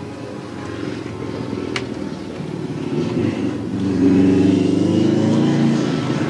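A motor vehicle's engine running nearby, growing louder about two seconds in and loudest over the last two seconds, with a single sharp click just before it swells.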